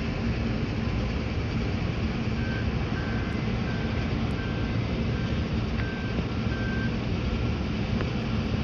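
Steady rumble of vehicles and machinery, with a distant reversing alarm beeping about twice a second for a few seconds in the middle.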